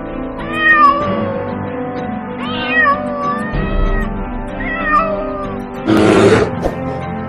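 Domestic cat meowing several times, short rising-and-falling calls, over background music. Near the end a loud, rough lion roar cuts in.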